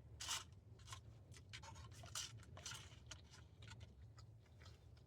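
Faint, scattered rustles and scrapes from food being handled during a meal, about half a dozen short ones, over a low steady hum.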